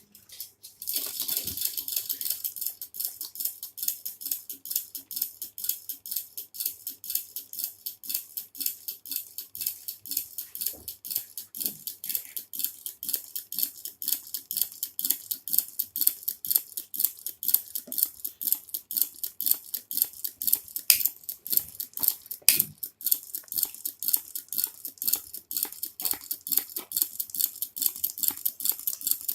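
Small hot air engine running: a fast, even clatter of light mechanical ticks that starts abruptly about a second in and keeps on.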